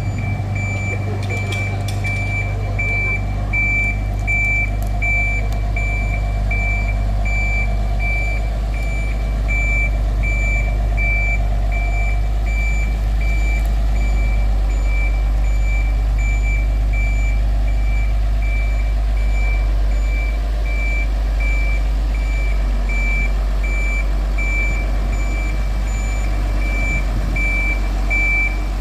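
Vehicle reversing alarm beeping steadily, about two beeps a second, during a tram depot shunt, over a steady low hum.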